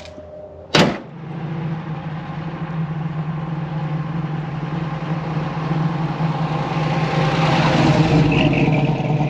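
A car hood slams shut about a second in, the loudest moment. Then a 1966 Chevelle SS's big-block V8 runs steadily, getting louder as the car drives up and past.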